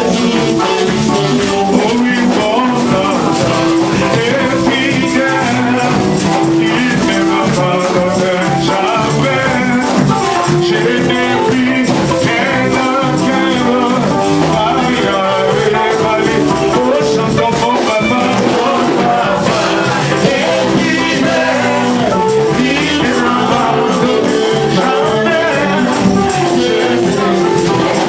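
Church worship music: voices singing over instruments, with shaker percussion keeping a steady beat.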